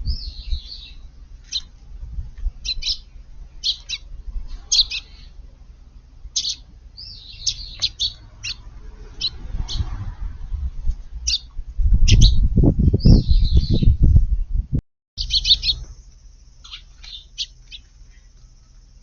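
Eurasian tree sparrows chirping, with many short, high chirps in quick runs. Past the middle, a loud low rumble lasts about three seconds, then the sound briefly cuts out. After that a steady high hiss runs under the chirps.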